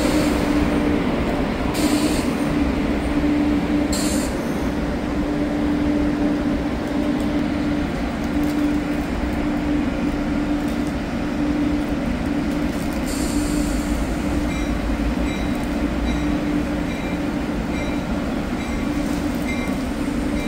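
NJ Transit commuter train's stainless-steel passenger coaches rolling past the platform, a steady rail rumble with an even hum. Brief high squeals come from the wheels a few times.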